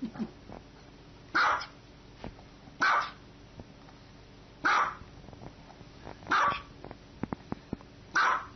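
Small dog barking five times, single barks about every second and a half.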